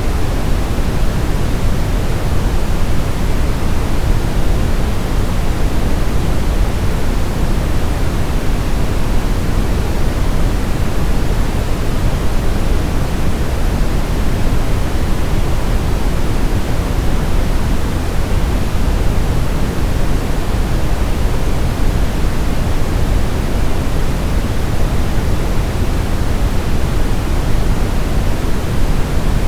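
Steady, unbroken synthetic noise played as a baby sleep aid, heavier in the low end than the highs, so it sounds more like a deep rushing hiss than bright white noise. It keeps an even level throughout.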